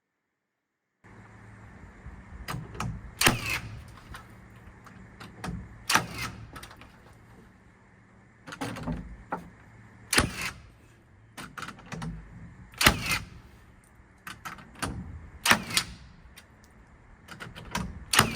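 Irregular knocks and clatter of objects being handled, about a dozen sharp hits spread unevenly over a faint steady low hum, starting after a second of silence.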